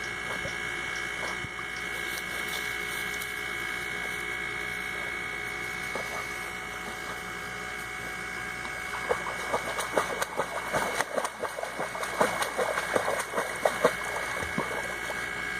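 Water splashing from a dog swimming, in a quick irregular run of sharp splashes from about nine seconds in, over a steady high-pitched hum.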